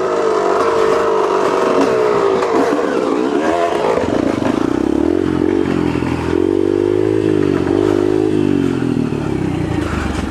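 A Yamaha TTR125 dirt bike's small single-cylinder four-stroke engine pulling away and riding at low speed, its pitch rising and falling several times as the throttle opens and closes.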